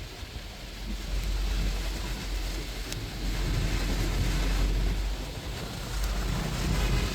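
Wind buffeting the microphone in three gusts on a moving open-top bus, a deep rumble that swells and fades, over a steady hiss of rain and road noise.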